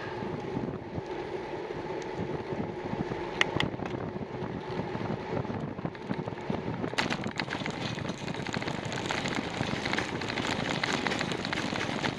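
Riding noise from a bicycle on the move: wind buffeting the microphone over tyre and road noise, with a faint steady hum in the first half. About seven seconds in, the noise turns rougher and louder with scattered clicks.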